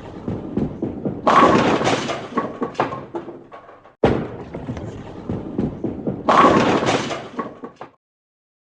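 A crash-and-clatter sound effect, played twice in a row. Each time, a run of knocks builds to a loud crash about a second in, then scattered clattering trails off.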